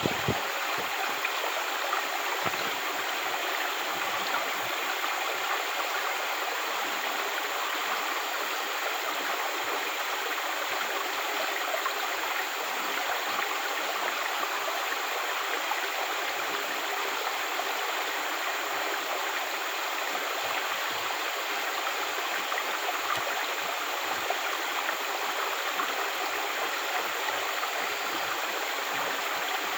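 Water flowing in a natural stream: a steady, unbroken splashing hiss.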